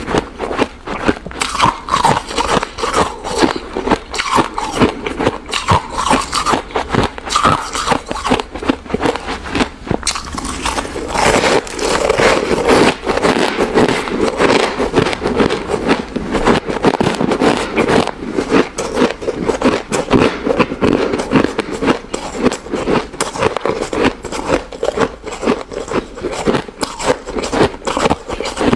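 Close-miked crunching of crushed and shaved ice being bitten and chewed, a dense run of rapid crunches that grows fuller and heavier about eleven seconds in.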